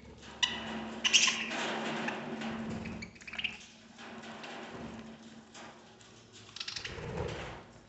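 Budgerigars chattering with short squawks and chirps, mixed with scratchy clicking and pattering, like small feet and beaks on a cage or perch.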